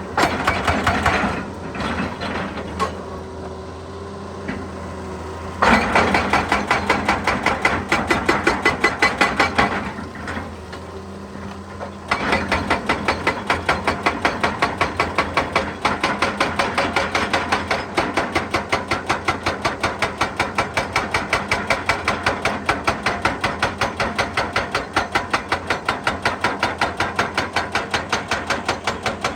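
Excavator-mounted hydraulic breaker hammering rock in fast, evenly repeated blows over the steady hum of the excavator's engine. It works in short stretches at first, with pauses, then hammers without a break for the second half.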